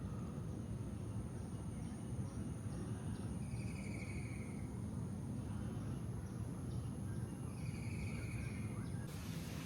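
Outdoor ambience with insects droning steadily at a high pitch over a low rumble, and two short pulsed trills about four seconds apart.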